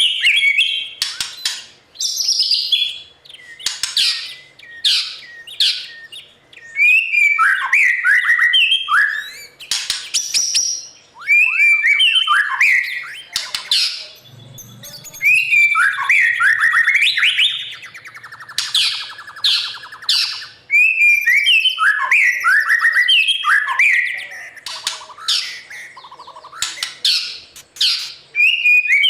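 White-rumped shama singing: loud, varied phrases of sliding whistles and sharp chattering notes, one after another with short pauses between, and a buzzy rattling note about two-thirds of the way through.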